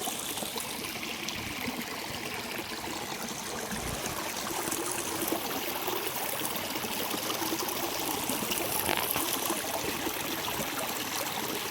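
A clear river stream trickling and running steadily over its bed.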